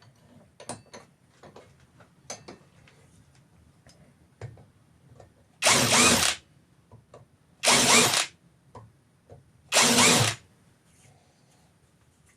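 Power drill run in three short bursts, about two seconds apart, with small clicks and knocks of handling between them.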